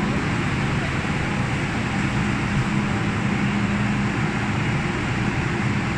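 Inside the carriage of an MTR Metro-Cammell M-Train: a steady low hum and rumble of the train's equipment, holding an even level with no sudden changes.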